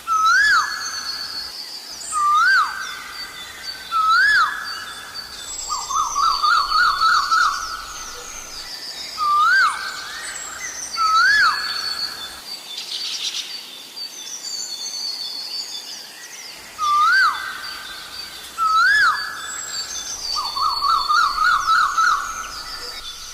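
Asian koel calling: a loud, hooked, rising note repeated about every two seconds, twice breaking into a fast run of quick notes, with a pause in the middle. Smaller birds chirp faintly and higher in the background.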